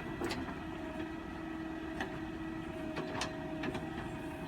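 Tractor diesel engine running steadily, with a few sharp metallic clicks or knocks, about two in the middle of the stretch close together.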